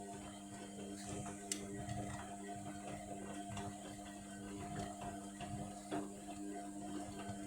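Indesit washing machine in the main wash of a Cotton 60 cycle: the drum motor runs with a steady hum while the drum turns, with scattered light clicks and ticks, the sharpest about a second and a half in and about six seconds in.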